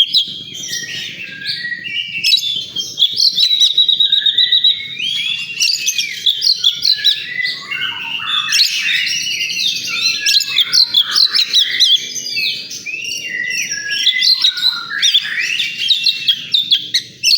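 Oriental magpie-robin (kacer) singing a rapid, unbroken stream of varied whistles, trills and chirps.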